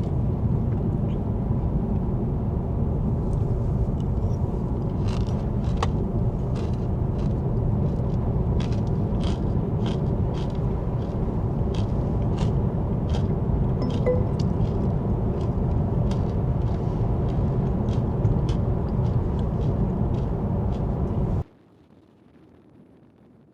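Steady low road rumble of a car being driven, as heard inside the cabin, with scattered small clicks over it. It cuts off suddenly about 21 seconds in, leaving only a faint hiss.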